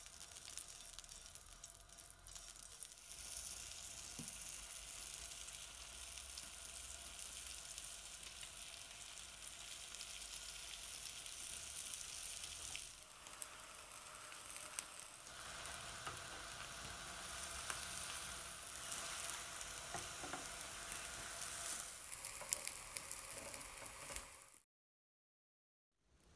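Oil sizzling in a grill pan as rolled tortilla wraps fry, a steady hiss that eases for a couple of seconds midway and then picks up again. It cuts off abruptly near the end.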